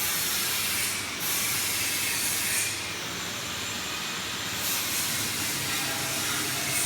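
PVC flexible duct forming machine running with a steady hiss, dipping briefly a few times.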